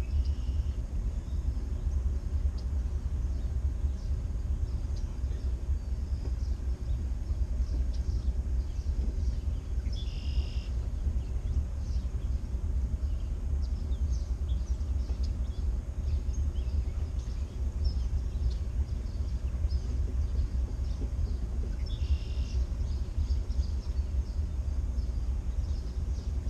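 Motor boat's engine running steadily under way, a low rumble, with a few short high bird calls about ten seconds in and again near the end.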